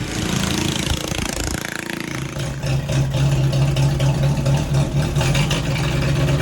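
Flathead engine swapped into a Farmall M tractor, running and settling into a steady idle about two seconds in. It runs well on new points and condenser, which cured its earlier running issue.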